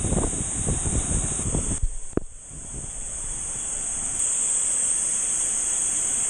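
Waterfall water rushing and splashing over the microphone, buffeting heavily for about two seconds. After a brief dip it settles into a steadier rush.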